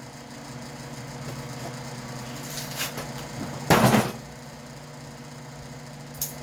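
Steady hum of a noisy shop fan, with a few light knocks and one loud clatter lasting about half a second, about four seconds in, as something is handled.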